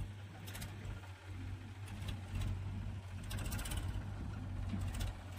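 Heavy diesel machinery engine running steadily with a low drone, with several short, sharp metallic clatters over it, one cluster lasting about half a second midway.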